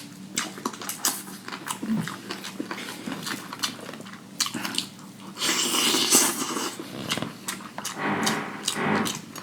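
A person eating close to the microphone: wet chewing and slurping with many small mouth clicks, with a louder stretch about halfway through.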